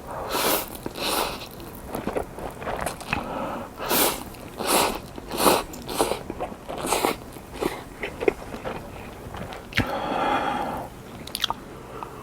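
A person biting and chewing crunchy fried food close to the microphone, in a run of crisp crunches about one every half second to second.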